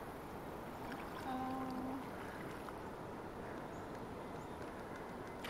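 Steady rushing water noise around kayaks on a river. About a second in comes a brief, steady pitched tone lasting under a second.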